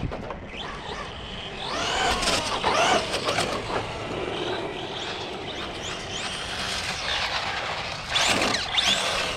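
Electric RC cars' brushless motors whining, the pitch rising and falling in repeated arcs as the cars accelerate and slow, over the hiss of tyres on pavement.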